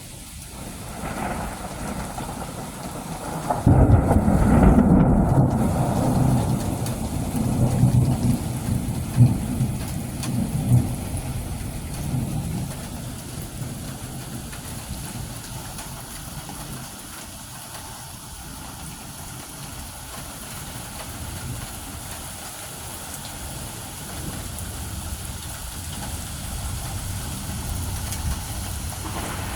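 Thunder rolling over steady rain. A loud low rumble breaks out a few seconds in and fades away over about ten seconds, leaving the rain.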